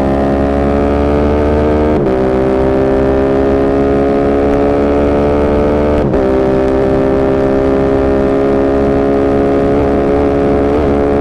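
Yamaha YZF-R7's parallel-twin engine through an aftermarket M4 exhaust, pulling hard under acceleration: the pitch climbs steadily, drops sharply at two upshifts about 2 and 6 seconds in, then climbs again, with a couple of brief wobbles in the engine note near the end.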